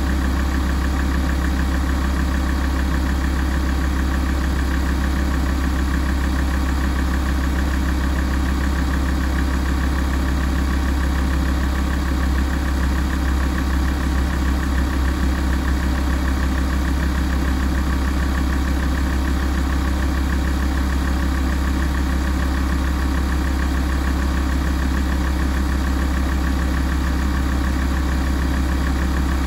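Alfa Romeo 166 2.4 JTDm five-cylinder common-rail diesel idling steadily while warming up.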